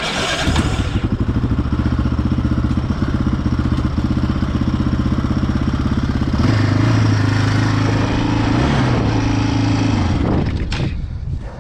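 Yamaha Raptor 660 quad's single-cylinder engine comes in suddenly and runs steadily. About six and a half seconds in its note rises and grows stronger as it takes load, then it falls away near the end.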